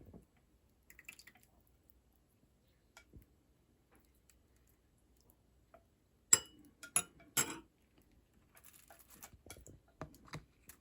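Small clicks and rustles of objects being handled, with three sharp, loud knocks in quick succession a little past the middle.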